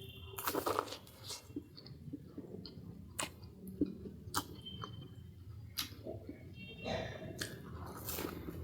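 Close-miked biting and chewing of crunchy food, in irregular bursts of crisp crackles with the loudest bites about half a second in and again near the end.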